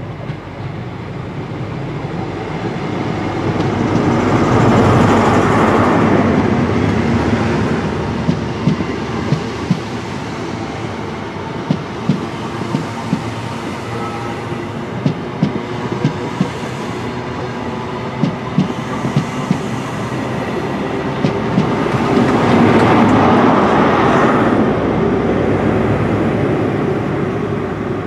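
Network Rail New Measurement Train, a High Speed Train with a Class 43 diesel power car at each end, running past. The leading power car's engine swells up and passes, then the coaches go by with a clickety-clack of wheels over rail joints. The rear power car's engine swells up about three-quarters of the way through and fades away.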